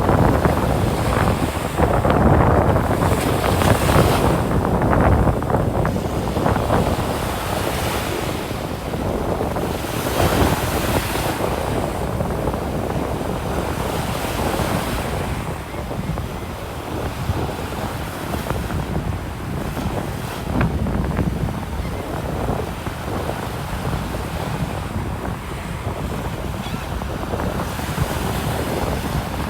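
Ocean surf breaking and washing up the beach, with wind buffeting the microphone. The surge is strongest for the first several seconds and then settles into a steadier wash.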